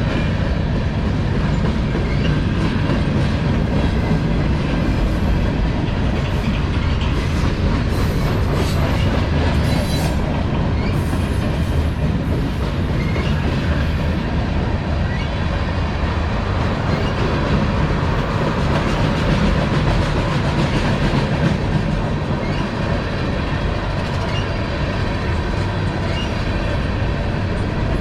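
Freight cars of a CSX manifest train rolling past at speed, a steady loud rumble with the clickety-clack of wheels over the rail joints. Faint high wheel squeals come through now and then, about eight to fourteen seconds in.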